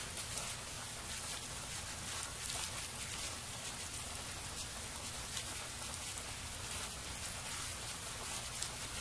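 Steady rain, a continuous hiss of many small drops pattering on surfaces.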